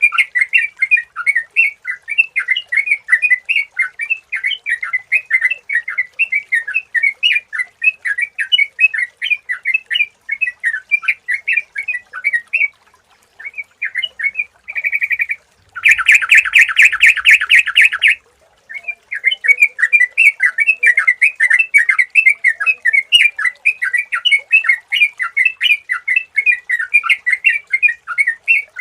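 Yellow-vented bulbul (trucukan) singing: a continuous stream of rapid, clear chirps. The song breaks off about halfway through, then comes back as a loud, fast, evenly pulsed rattle for about two seconds, after which the chirping carries on.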